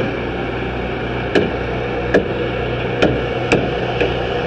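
A series of about five sharp, short knocks spaced irregularly, over a steady low hum.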